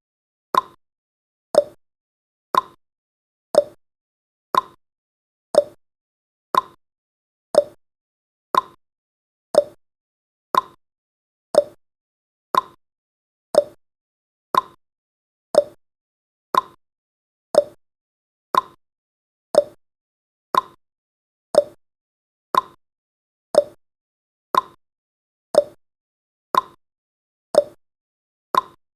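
Countdown timer's clock-tick sound effect, one short sharp tick every second at an even pace.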